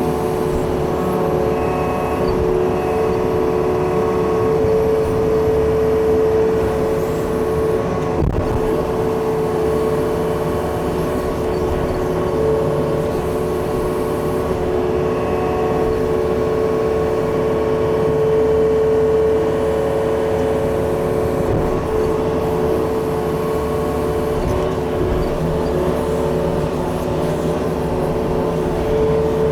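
Diesel engine of a Yanmar machine running steadily while it digs with a rake attachment.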